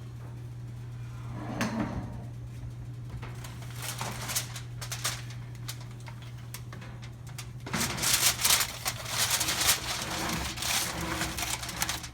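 Kitchen handling sounds: scattered clicks and knocks, then a stretch of dense rustling and clattering in the second half, over a steady low hum.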